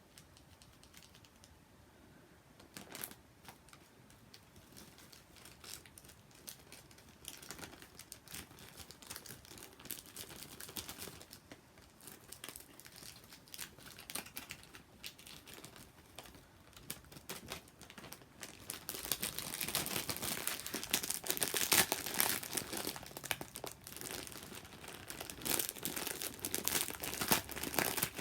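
Plastic ramen snack packet crinkling and rustling as it is handled. It starts sparse and grows busier and louder about two-thirds of the way in.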